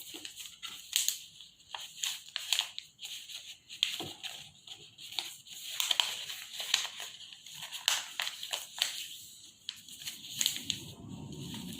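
A sheet of A4 paper being folded and creased by hand: irregular crisp crinkling and rustling with short, sharp creasing sounds.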